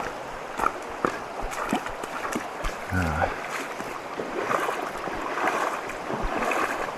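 Shallow river water running over rocks, with scattered sharp clicks and knocks of a hiker's footsteps on wet stones during a river crossing.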